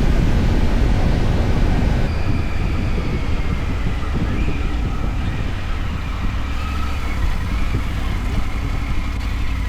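Motorcycle engine running while being ridden, with heavy wind rumble on the microphone; the sound eases off a little a couple of seconds in as the bike slows.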